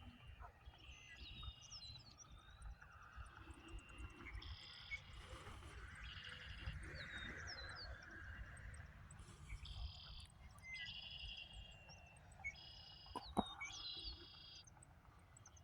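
Morning chorus of birds: short, high trilled songs repeat every second or two, with scattered chirps between them, over a low rumble. A single sharp click near the end.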